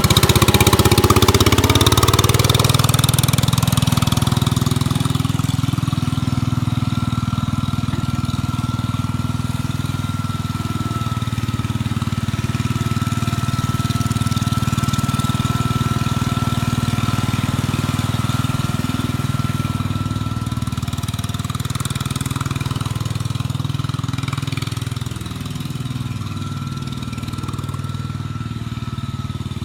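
1967 Case 155 garden tractor engine running steadily while the tractor is driven, rising in pitch in the first couple of seconds. A thin high whine sits on top through much of it. The engine speed wavers a little past twenty seconds, and the sound drops slightly in loudness soon after.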